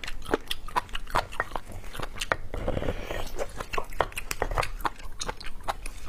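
Close-miked wet chewing and lip-smacking of braised beef and bone marrow: a rapid run of sharp mouth clicks, several a second, with a short rustling hiss about halfway through.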